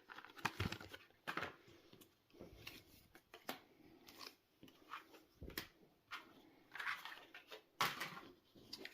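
Trading cards and foil booster-pack wrappers being handled: faint, irregular rustles, crinkles and small clicks.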